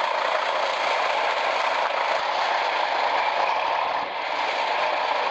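Heavy truck running steadily, a continuous engine and rolling noise with no change in pitch.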